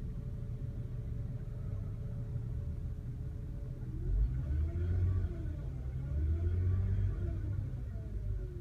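2003 Toyota Camry making a whining noise over its engine rumble: a steady whine at first, then, about halfway in, the engine is revved twice and the whine rises and falls in pitch with it each time, sliding back down near the end.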